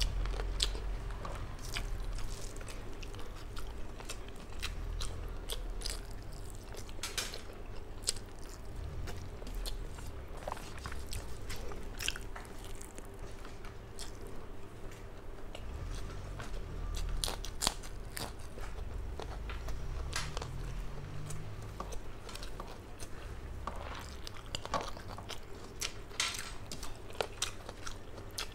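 A person chewing mouthfuls of rice and fish eaten by hand, close to the microphone: wet mouth smacks and chewing with irregular sharp clicks throughout.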